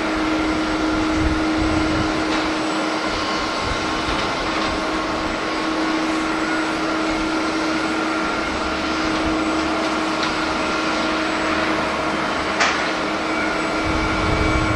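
Jet airliner engines running with a steady whining hum, with gusts of wind buffeting the microphone near the start and near the end. A single sharp click about twelve and a half seconds in.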